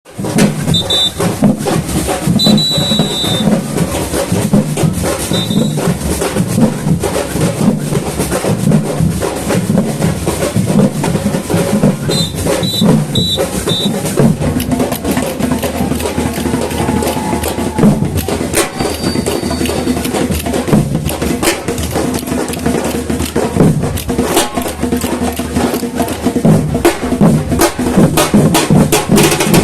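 Batucada samba percussion group playing a loud, dense drum rhythm, with short high whistle-like signals several times in the first half.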